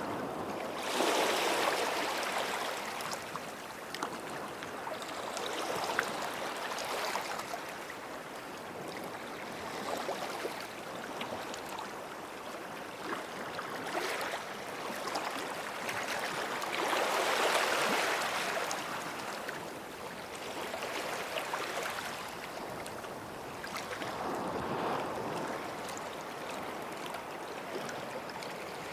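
Small sea waves washing onto a beach, each one swelling up and falling away every few seconds, with a fine fizzing crackle of foam and draining water between them.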